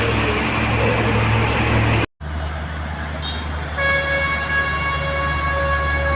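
Heavy vehicle engine running steadily, with a brief cut in the sound about two seconds in. Then a vehicle horn sounds as one steady blast lasting about two seconds.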